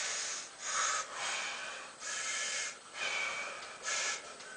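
A man breathing hard through a set of dumbbell flies: about six forceful, hissing breaths in and out, less than a second apart, dying down near the end.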